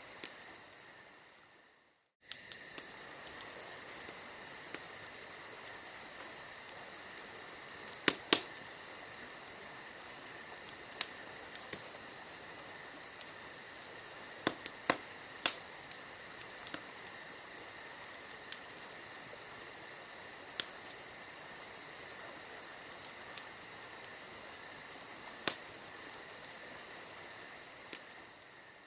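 Wood campfire crackling, with sharp pops at irregular intervals, over a steady high chirring of crickets. The sound fades out and back in about two seconds in.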